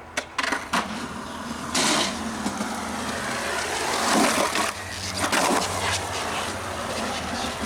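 Skateboard wheels rolling with a steady rumble, broken by sharp board clacks in the first second and louder scrapes and impacts about two, four and five and a half seconds in.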